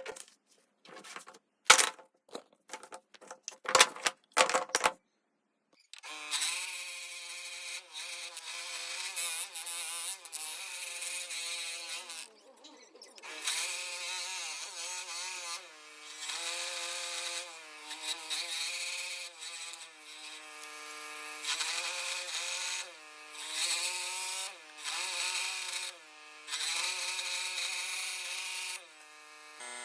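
A handful of sharp knocks and clicks, then an electric power tool running and working wood, its pitch sagging and recovering again and again as it takes load, with brief drops in between.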